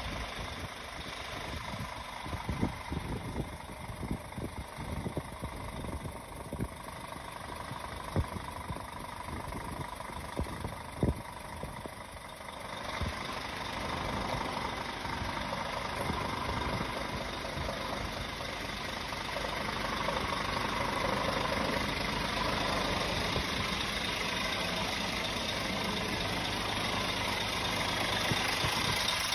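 Scania R490 truck's diesel engine idling, with irregular thumps in the first half. It gets louder and hissier from about halfway through.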